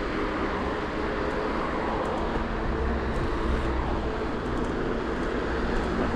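Electric mountain bike on the move: steady wind and tyre noise with a steady whine from its Bafang BBSHD mid-drive motor.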